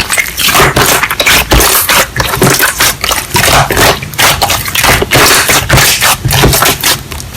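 Close-up crackling and scraping: a quick, uneven run of short crunchy strokes.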